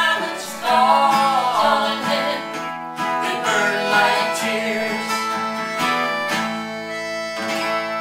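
Acoustic guitar playing the closing bars of a country-style song. A held sung note wavers about a second in, and the guitar's chords ring on with a few strums after it.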